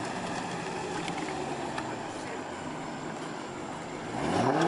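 Steady crowd and street noise, then near the end a car engine revs hard, its pitch climbing quickly and louder than anything else.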